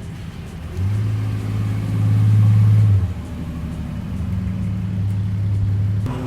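A car engine running as the car drives by. It comes in about a second in, is loudest around two to three seconds in, then eases back and holds steady until near the end.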